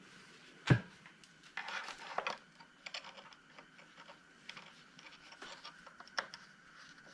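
Hands handling small hard parts while topping up a lawnmower's oil: one sharp knock about a second in, a short stretch of scraping and rustling, then scattered light clicks and taps.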